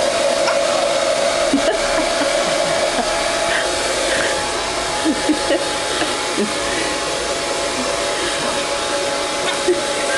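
Hand-held hair dryer blowing steadily: a continuous rushing of air with a steady hum from its fan motor.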